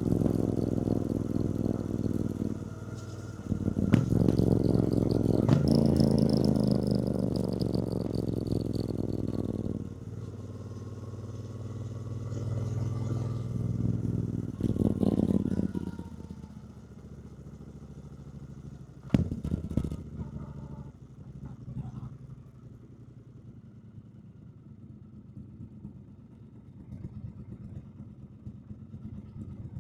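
Triumph Bonneville T120's 1200 cc parallel-twin engine pulling on the road, its pitch shifting as the revs change. After about fifteen seconds it drops to a much quieter, steady low-speed running, with one sharp knock near the middle of that stretch.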